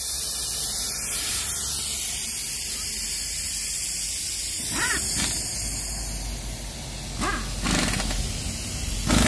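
A steady high hiss, with a few short, sharp noises about five seconds in and again near the end.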